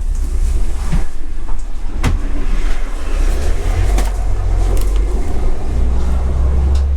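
Steady low rumble of a city bus's engine and road noise, heard from inside the moving bus, with a few light knocks and rattles.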